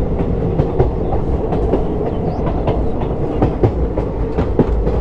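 Passenger train running along the track: a steady low rumble with frequent, irregular clicks and clatter from the wheels on the rails.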